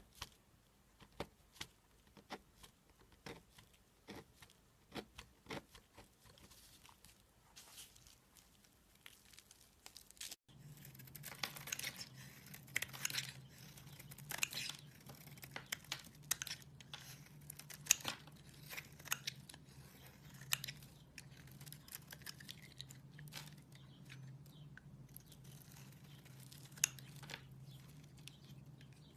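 Slime being worked by hand, giving sticky crackling and popping clicks: scattered clicks at first, then, after an abrupt change about ten seconds in, denser crackling over a steady low hum.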